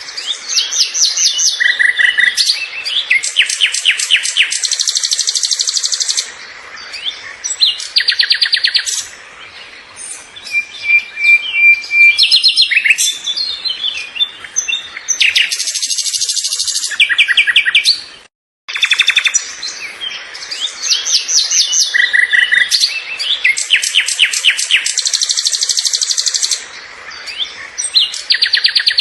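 Songbirds singing and chirping, with rapid trills and repeated sharp chirps overlapping one another. About two-thirds of the way through there is a brief break, and then the same passage of song starts over, as a looped recording.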